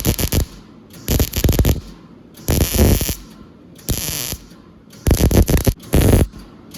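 Welder laying a series of short tack welds on sheet steel: about six crackling bursts of under a second each, with short pauses between.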